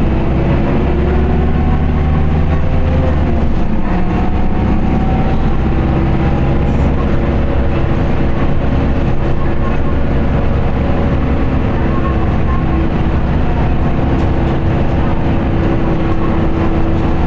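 Running sound of an Isuzu Erga city bus's four-cylinder turbo-diesel engine, heard from inside the cabin while driving at steady load, a constant drone whose engine tones shift slightly in pitch.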